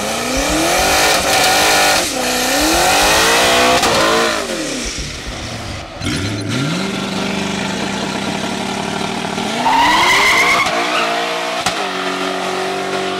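Twin-turbo 5.0-litre Ford Mustang V8 revving up and down in blips at the start line, then held at steady revs. About ten seconds in it launches hard with rising revs.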